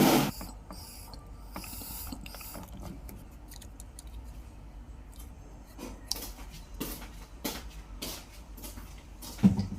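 A knock at the start, then scattered sharp clicks and small knocks of hand-handled mechanical parts, more frequent in the last few seconds.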